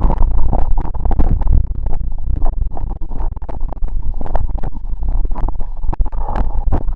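Wind buffeting the microphone: a loud, irregular low rumble with crackling throughout.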